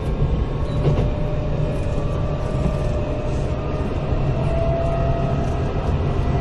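Kintetsu 8000 series electric train car heard from inside while running: a steady rumble of wheels and running gear, with a motor and gear whine that rises slowly in pitch as the train gathers speed.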